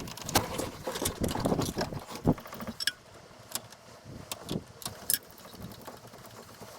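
Scattered sharp clicks and light knocks at irregular intervals, more of them in the first half, from tools and filter parts being handled during boat fuel-filter maintenance.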